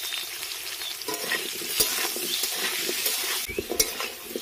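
Cubed potatoes sizzling in hot mustard oil in a metal kadai, with a metal spatula stirring and scraping against the pan from about a second in, giving a few sharp clicks.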